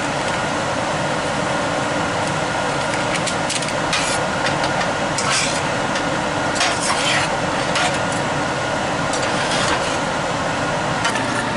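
Ground venison, peppers and onions sizzling steadily in a steel skillet as taco seasoning is stirred in, with a utensil scraping against the pan several times.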